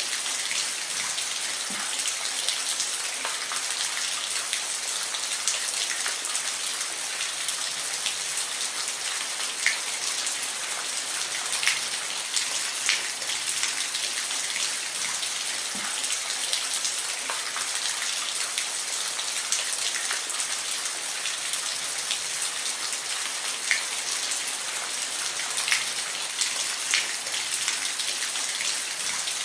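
Steady rain falling, a constant hiss with distinct drops ticking on a surface now and then.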